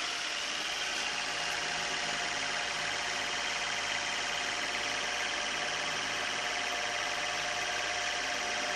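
Ventisul 220-volt wall fan with a 39 cm blade running steadily: a constant rush of air with an even motor hum and a thin steady whine.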